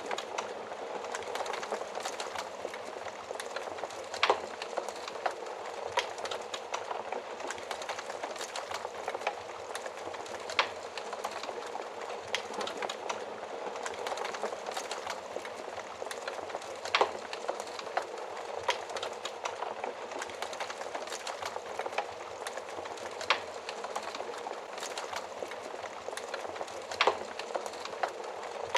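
Wood fire burning in an oven: a steady hiss of flames with frequent small crackles and a sharp pop every few seconds.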